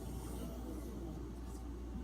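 D2 steel knife blade being stropped, rubbing along the strop as a soft, steady scraping. This is a stage in trying to refine an edge that was left dull by the 3000-grit stone.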